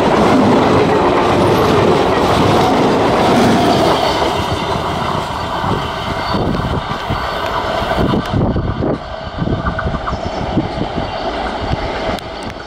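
Diesel multiple unit (DMU) passenger train passing close by, its wheels clattering over the rail joints, then running away and fading gradually.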